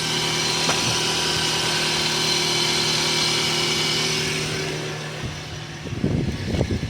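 Toyota RAV4 engine idling steadily, fading away about four and a half seconds in, with irregular knocks and rustling near the end.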